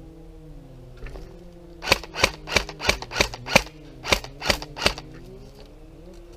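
Airsoft gun firing a quick string of nine sharp semi-automatic shots, about three a second, with a brief pause after the sixth.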